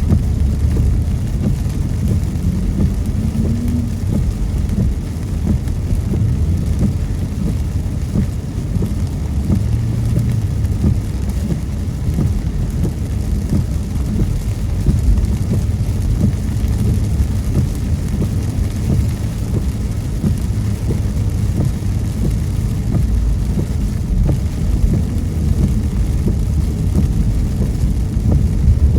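Car driving in the rain, heard from inside the cabin: a steady low road noise of tyres on wet pavement with rain hitting the car. A faint short rising whine a few seconds in.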